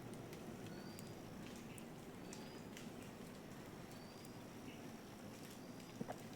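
Faint short, high bird chirps repeating about once a second over quiet outdoor background, with a couple of soft clicks about six seconds in.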